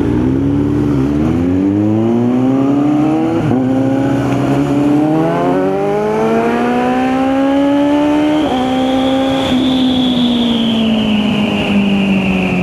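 Kawasaki Z900 inline-four motorcycle engine accelerating through the gears, its pitch rising and dipping at each upshift. In the last few seconds the rider eases off and the pitch slides down.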